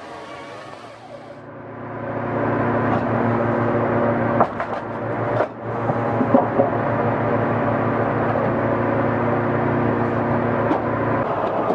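A motor running steadily, starting about a second and a half in, with a few knocks and clatters around the middle.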